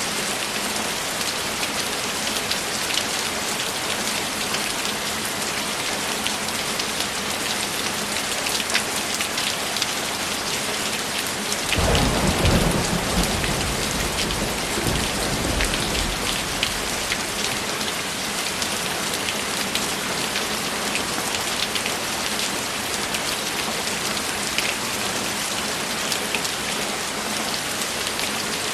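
Steady rain with scattered drop impacts. About twelve seconds in, a roll of thunder starts suddenly and rumbles off over about five seconds.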